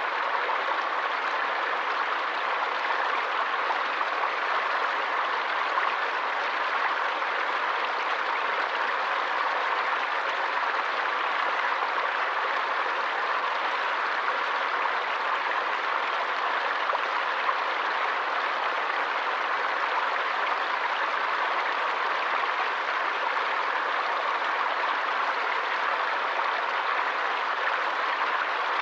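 Forest stream water flowing, a steady, even rushing sound with no breaks.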